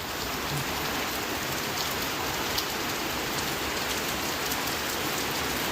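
Heavy rain pouring down, a steady dense hiss with scattered drops pattering on surfaces.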